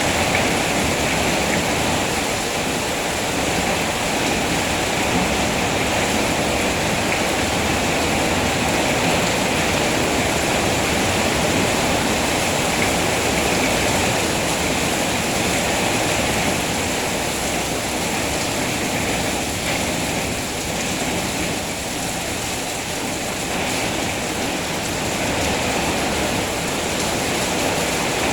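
Steady heavy rain falling, a continuous even hiss that dips slightly in level around the middle.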